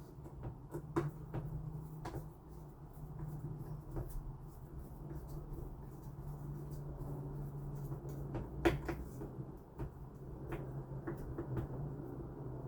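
Scattered clicks and knocks of hands working on a smart door lock and its cover, the sharpest about a second in and again past the middle, over a steady low hum.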